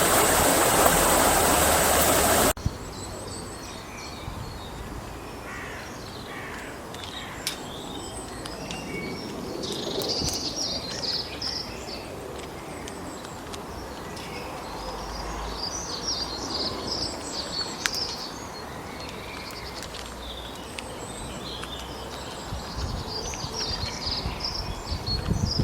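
Rushing stream water that cuts off suddenly about two and a half seconds in, followed by wild birds chirping and calling, busiest in a few clusters. A few low thumps come near the end.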